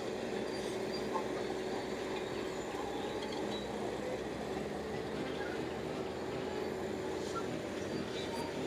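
Bulldozer's diesel engine running steadily under load: a constant drone with a steady hum that does not rise or fall.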